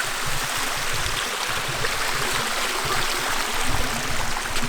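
Mountain stream water rushing steadily, with gusty low rumbling of wind on the microphone.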